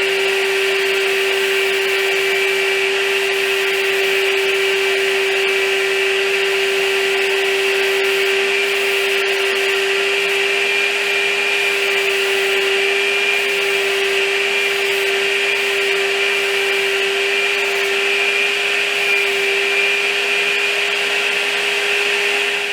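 Electric paint sprayer running steadily while spraying translucent wood stain: a constant motor whine with a hiss of spray over it. It cuts off suddenly at the very end.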